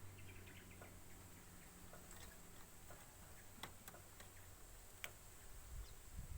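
Near silence with a few faint, scattered clicks over a low room hum.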